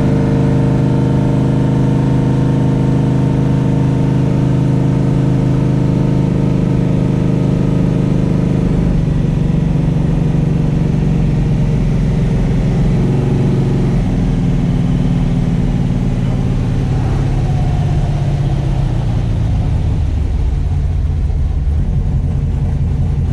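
A 1968 Plymouth Barracuda's 512 cubic-inch stroker big-block V8 running steadily. Its note drops lower about nine seconds in and falls again near the end.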